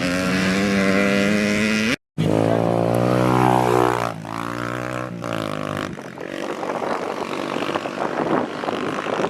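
Dirt bike engines revving as bikes ride past, the pitch climbing and falling with throttle, broken by a brief drop-out about two seconds in; after about six seconds the engine sound turns rougher and less even.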